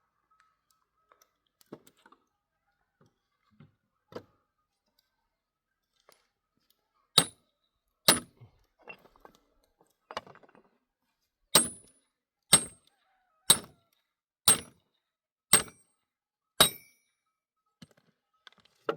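A series of sharp knocks or strikes: two a second apart, then after a pause six more at an even pace of about one a second, each with a brief bright ring.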